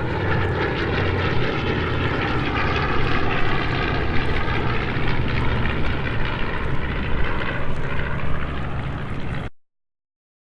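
Propeller airplane flying overhead, a steady engine drone that cuts off suddenly near the end.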